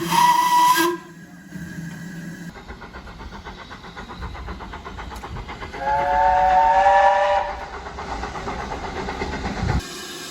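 Steam locomotive whistles: a short blast on a single note at the start, then, after a cut, a chime whistle sounding several notes at once for about a second and a half.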